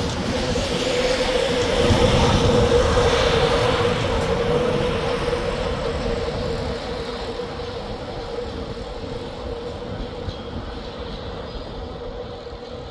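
A train passing, loudest two to four seconds in and then fading away, with a steady humming tone over the rumble.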